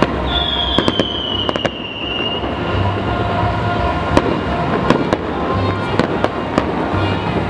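Fireworks display: sharp bangs and crackles of bursting shells, with a long whistle that falls slightly in pitch near the start. Music with a low beat plays underneath.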